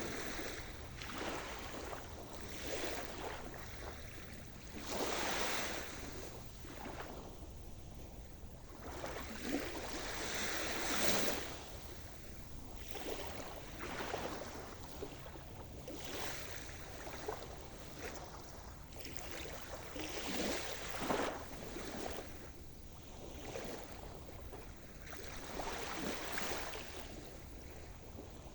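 Sea surf: waves breaking and washing in, one after another every couple of seconds, with the loudest breaks about five and about eleven seconds in.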